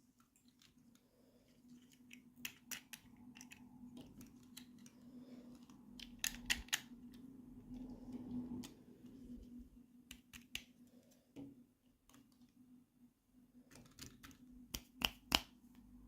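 Scattered sharp clicks and taps from handling small plastic toy pieces and packaging, over a faint steady hum.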